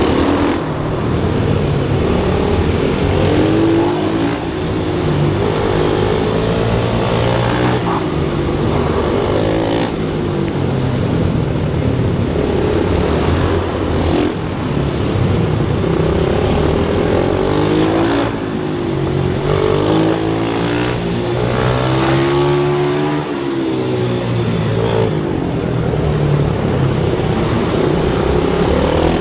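Pit bike engine revving hard and easing off over and over, its pitch climbing and dropping through gear changes and corners, loud throughout.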